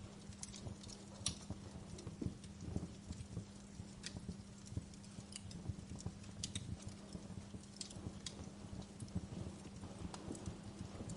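Wood fire burning in a fireplace, crackling: irregular sharp snaps and pops over a low rumble of the flames, with a faint steady low hum underneath.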